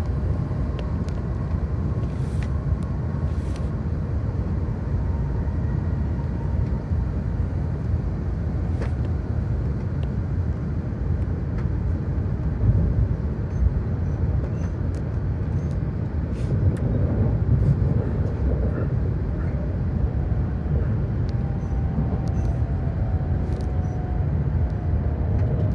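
Steady low rumble of an E7 series Shinkansen running at speed, heard inside a passenger car. A faint whine rises out of it near the end and falls slightly in pitch.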